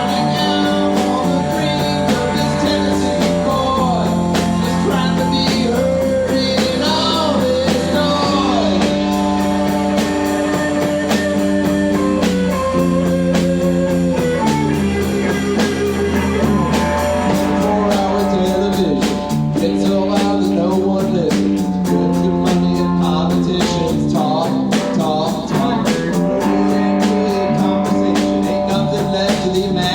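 Rock band playing live: singing over guitar and drums with a steady beat.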